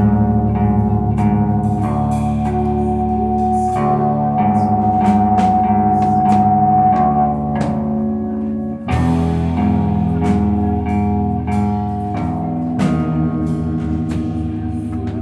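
Slowcore/noise rock band playing live without vocals: electric guitar chords ringing over drums, with struck notes at a steady pulse. The sound dips briefly about nine seconds in, then a new chord comes in loudly.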